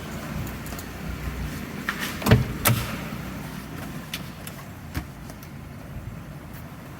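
Air-conditioning blower fan running with a steady rush of air, making an abnormal noise: a few sharp clicks or knocks, two close together about two and a half seconds in and another about five seconds in.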